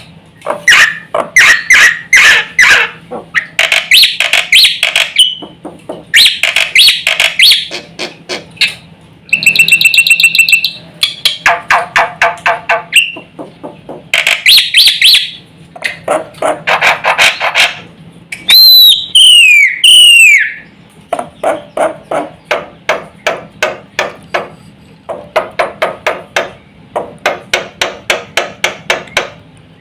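Black-winged myna (jalak putih) singing: fast runs of harsh clicking chatter broken by clear whistles, with a few loud downward-slurred whistles about two-thirds of the way through.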